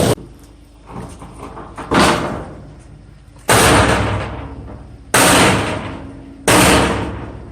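Firewood logs being thrown down onto a pile: a series of heavy wooden thuds and clatters, about one every one and a half seconds, each dying away quickly.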